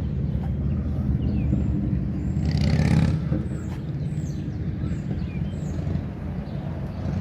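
Steady low rumble of a motor vehicle's engine running, with a louder swell about two and a half seconds in. Faint high chirps of small birds come and go over it.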